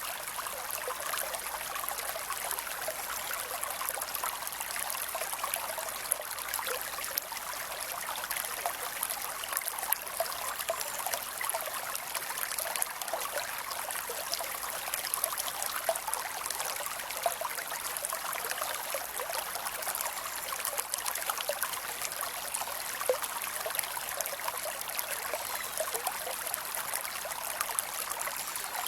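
Creek water running steadily over rocks, a continuous rush with fine splashing and trickling.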